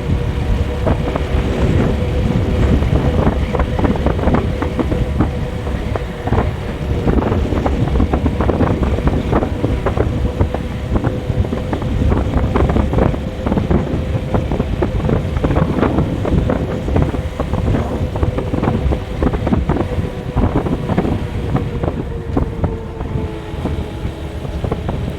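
A vehicle on the move: a steady engine note over a heavy low rumble, with wind buffeting the microphone and frequent short knocks and rattles.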